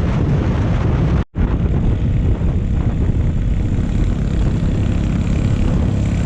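Wind buffeting the microphone with the running noise of a moving motorcycle, a steady low rumble. The sound cuts out for a split second about a second in.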